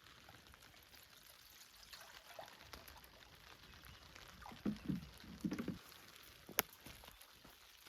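Light rain pattering steadily, with a short run of low gurgling knocks about five seconds in and a single sharp click near the end.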